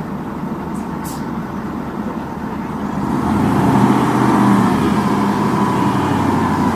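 Heavy vehicle engine running steadily, growing louder about three seconds in and then holding at that level.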